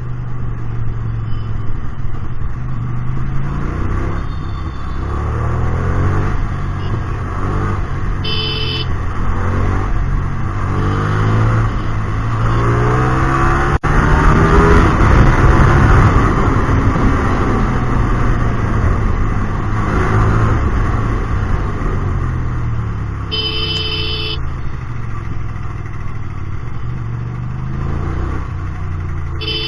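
Hyosung GT250R V-twin motorcycle with an aftermarket exhaust, riding through traffic: the engine note climbs and drops again and again as it accelerates and shifts gears, loudest about halfway through. Short horn beeps sound a few times.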